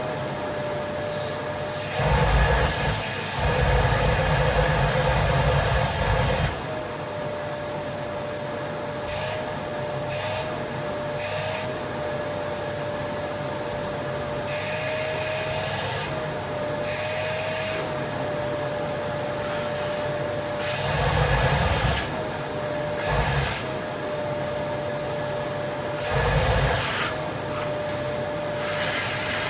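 Vacuum cleaner running with a steady whine, broken by several louder, rougher spells of noise: two in the first seven seconds and a few more near the end.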